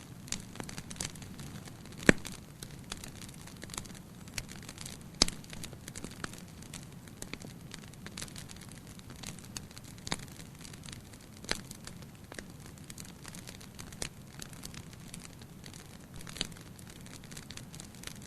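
Fire burning in a fireplace, crackling steadily over a low rumble, with sharp pops scattered throughout; the two loudest come about two and five seconds in.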